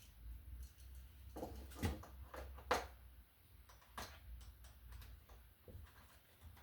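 Screwdriver turning down the unused terminal screws on a wall receptacle: scattered small clicks and scrapes of metal and plastic, the sharpest a few around two to four seconds in.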